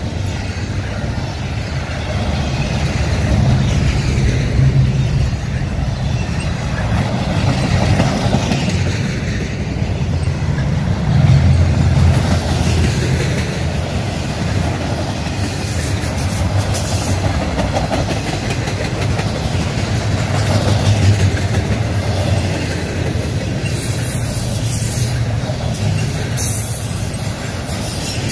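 Double-stack intermodal train of container-laden well cars rolling past: a steady rumble of steel wheels on rail that swells and eases as car after car goes by.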